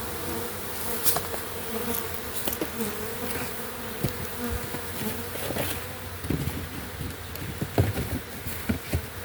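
A swarm of honeybees buzzing in a steady hum, with a few scattered knocks mixed in.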